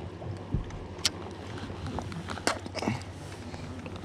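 A few scattered knocks and clicks of handling in a fishing boat, over a steady low hum.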